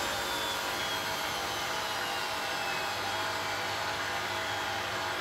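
Beko WTB740E1W front-loading washing machine running a programme: a steady motor hum with a thin high whine that slowly falls in pitch during the first few seconds.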